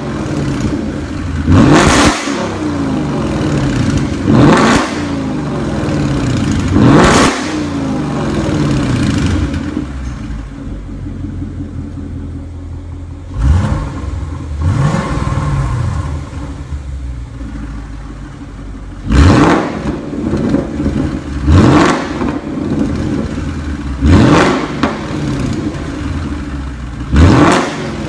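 Ford Mustang GT's 5.0 V8 through an Armytrix valved exhaust, blipped in short, sharp revs about nine times, a few seconds apart, falling back to idle between each.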